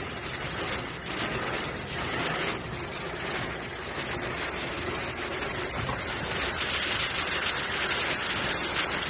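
Heavy rain falling, a dense crackling hiss that grows louder about six seconds in.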